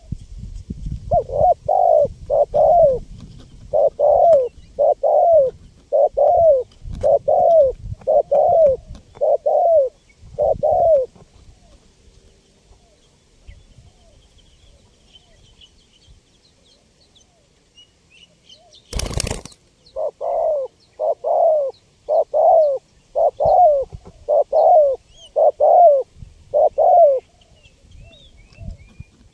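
Spotted dove (tekukur) cooing: a run of about ten repeated coo notes over some ten seconds, a pause, then a second run of about eight. A short sharp crackle sounds just before the second run, and faint chirps of small birds are heard in the background.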